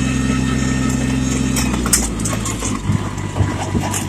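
Yanmar tractor's diesel engine running steadily, dropping to a lower pitch about two seconds in, with a few short knocks in the second half.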